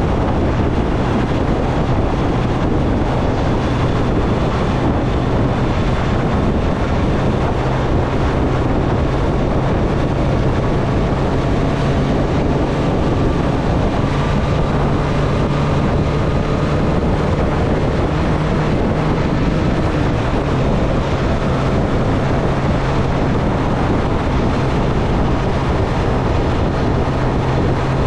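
Triumph Street Triple's three-cylinder engine running at a fairly steady cruising speed, mixed with wind rushing over the microphone.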